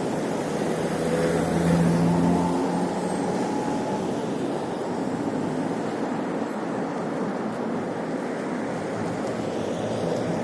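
Steady rush of wind and road noise on a moving bike's microphone amid city traffic, with an engine hum swelling louder for a second or two about a second in.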